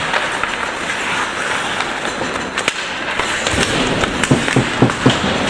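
Ice hockey play: skate blades scraping the ice, with sharp clacks of sticks and puck, and a few heavier low thumps in the last two seconds.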